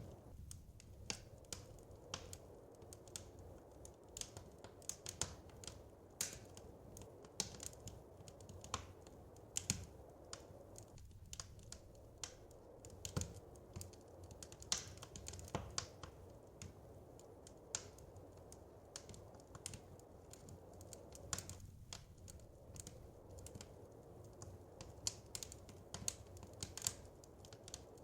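Wood fire crackling in a fireplace: irregular sharp pops and snaps, several a second, over a soft low rumble.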